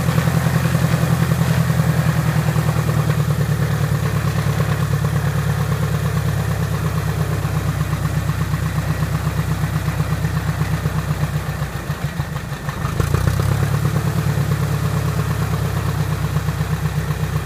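Piper Apache's rebuilt piston engine running steadily at low power on its first run after the rebuild. The level dips briefly about twelve seconds in, then picks up a little.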